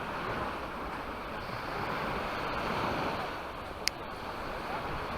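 Sea waves breaking and washing up the beach, swelling about halfway through and then easing off. A brief sharp click near the end.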